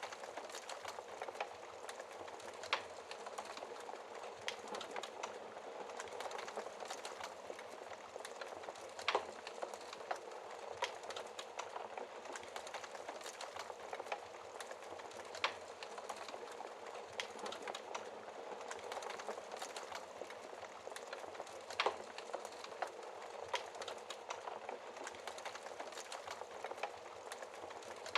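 Wood fire burning behind a fireplace's glass shield: a steady hiss of flames with frequent small crackles and a few sharper pops.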